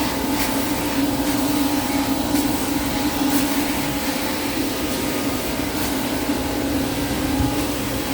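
Car wash vacuum cleaner running steadily: a constant motor hum over rushing air, with a few light clicks.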